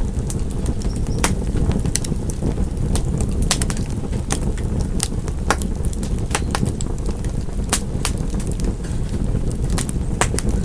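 Wood fire crackling in a fireplace: a steady low rumble of burning under irregular sharp pops and crackles, about two a second.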